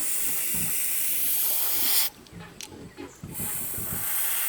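Loud steady hiss in two spells, the first about two seconds long, the second about a second, with a short gap between them filled by faint low knocks.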